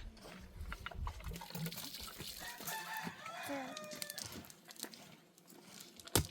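A rooster crows once, a single pitched call of about a second and a half. A low rumble comes before it, and a sharp knock sounds near the end.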